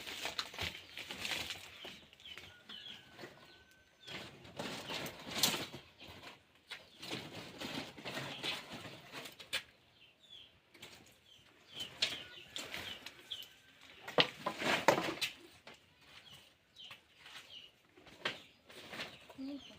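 Irregular rustling and crackling of dry brush and sticks being handled and walked through, with a few faint bird chirps.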